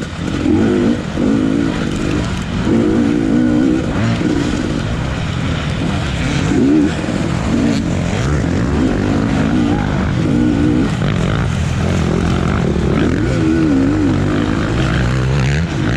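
Motocross bike engine in the 250 class being ridden hard, its revs rising and falling again and again as the rider accelerates, shifts and backs off through the track, over a constant rushing noise.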